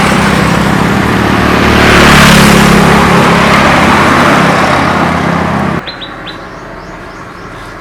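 A loud, steady rushing hiss over a low engine hum, swelling about two seconds in and cutting off abruptly about six seconds in; a few faint chirps follow.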